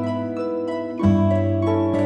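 Background music of gentle plucked notes, harp-like, with a new bass note about a second in.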